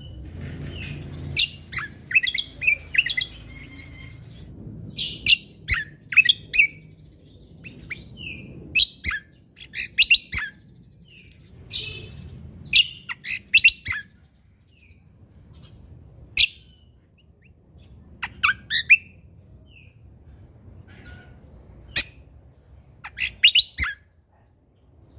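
Cucak kombo (kecial kombok) singing: clusters of sharp, high chirps and quick trills come one after another with short pauses between them.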